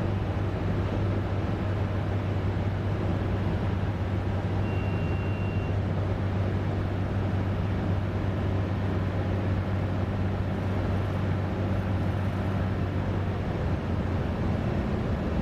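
Cessna 210's piston engine and propeller droning steadily on the landing approach, with flaps at 20. A short, thin high beep sounds once about five seconds in.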